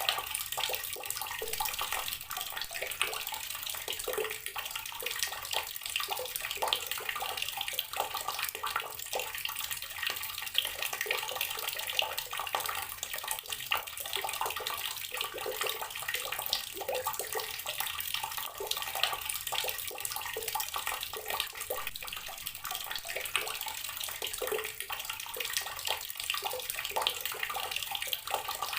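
Outdoor garden water tap running, water splashing steadily.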